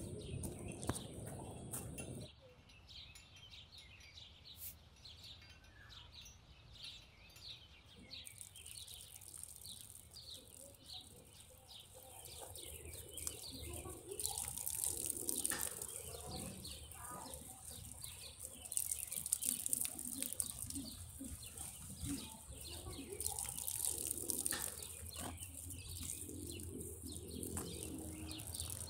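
Small birds chirping again and again, with a few spells of hiss from water spraying out of a garden hose, and a low rumble in the first couple of seconds.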